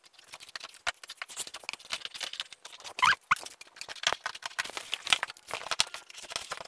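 Scissors slitting the packing tape along the seam of a large cardboard box: a dense run of small snips, scrapes and taps, with two brief squeaky chirps about three seconds in.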